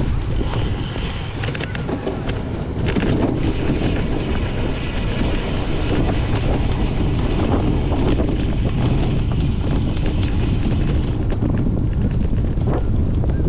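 Wind rushing over the microphone of a cyclocross racer's camera while riding, with the bike rattling and clicking over the course. The hiss eases about three-quarters of the way through.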